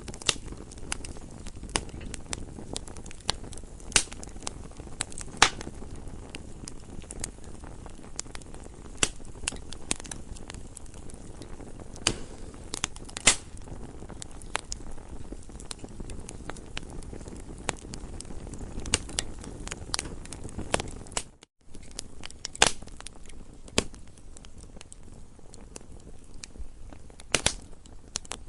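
Wood fire crackling: a steady low rustle of burning with irregular sharp pops and snaps. The sound cuts out completely for a moment about two-thirds of the way through, then resumes.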